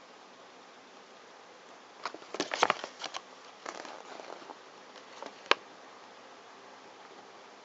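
Small plastic capsule-toy parts handled: a quick run of crinkling clicks, then one sharp click a few seconds in.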